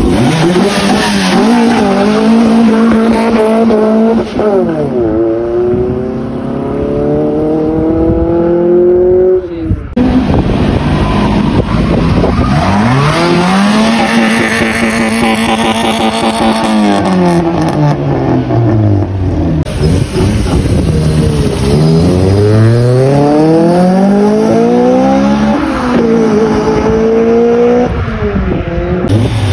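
Honda four-cylinder car engines revving hard in a run of short clips, the engine note climbing steeply and dropping again over and over as the cars are driven off.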